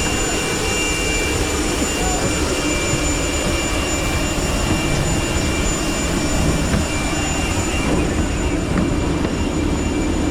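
Airliner cabin noise after landing: the engines run with a steady, even drone and a constant high whine on top, unchanging throughout.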